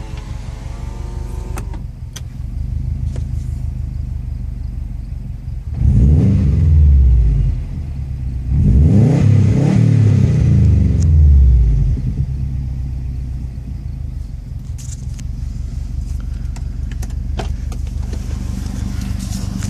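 A 2004 Subaru Impreza WRX STI's turbocharged 2.5-litre flat-four with a Perrin turbo-back exhaust idles steadily and is revved twice, about six and nine seconds in. On each rev the pitch rises and falls back to idle; the second rev is longer and reaches about 5,000 rpm. It is heard from inside the cabin.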